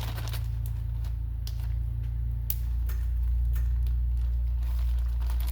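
Scattered light clicks and ticks of small valve parts being handled and set down, over a steady low hum.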